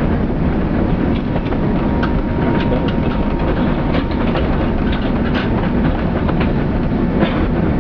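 Airbus A380 cabin during landing: a loud, steady low rumble with a rapid scatter of rattles and clicks, typical of the airliner rolling out on the runway after touchdown.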